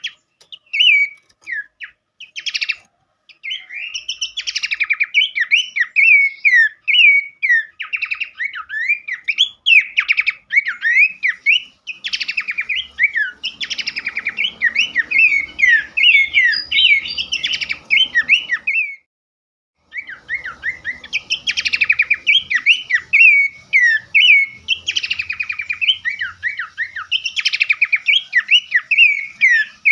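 Small songbirds singing rapid runs of sharp chirps, trills and whistled glides that overlap densely, with a brief break about two-thirds of the way through.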